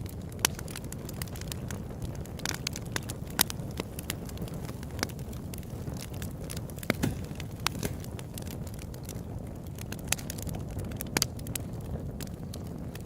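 Open-air campfire crackling: wood burning with a steady low rumble and frequent irregular sharp pops and snaps, a few of them louder.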